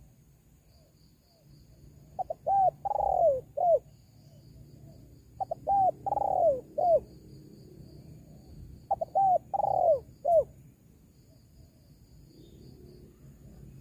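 Spotted dove cooing as a recorded lure call. It gives three phrases about three and a half seconds apart, each made of a couple of short notes, a longer arching coo and a short closing note.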